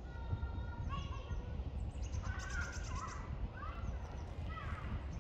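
Small birds singing and calling: short rising and falling chirps and a fast high trill about two and a half seconds in, over a steady low rumble.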